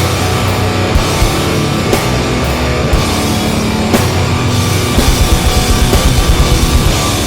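Loud heavy rock music with distorted guitar and drum kit, the kick drum turning to rapid repeated hits about five seconds in.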